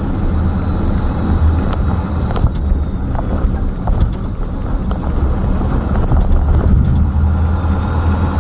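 Steady low drone of a flatbed truck's engine and road noise inside the cab while driving, with a few light rattles or ticks.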